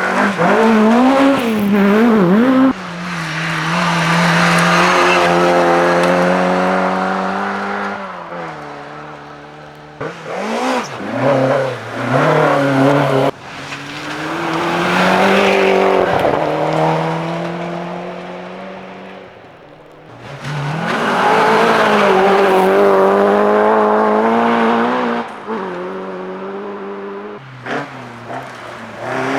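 Rally car engines revving hard as several cars pass one after another, each engine note climbing and falling through gear changes, with sudden jumps from one car to the next.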